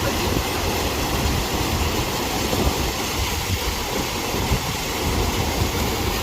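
Stream water rushing over small waterfalls: a steady rushing noise with a low, unsteady rumble underneath.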